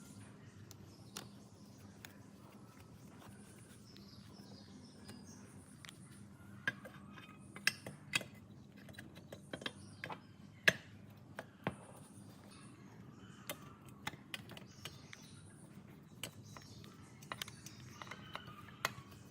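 Irregular sharp clicks and taps of small metal parts and hand tools being handled, spaced unevenly, with a few louder strikes in the middle, over a low steady hum.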